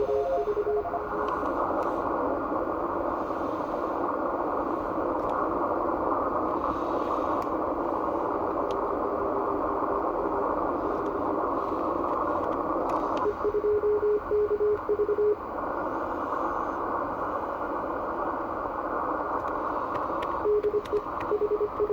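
IC-7600 HF transceiver receiving on the 17 m band: steady band hiss through a narrow CW receive filter. A keyed Morse code tone comes through twice, for about two seconds some 13 seconds in and again near the end.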